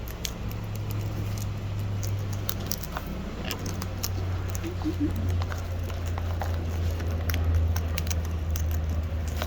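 Parrots crunching and cracking seed: an irregular scatter of small crisp clicks and crackles, over a steady low hum.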